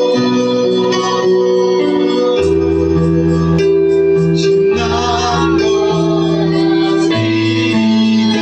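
Worship music on an electronic keyboard with an organ sound, playing held chords that change every second or so, with a deep bass line coming in about two and a half seconds in.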